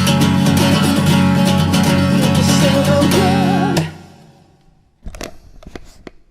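Acoustic guitar strumming the closing chords of the song, cut off sharply just under four seconds in. A few sharp knocks follow a second later.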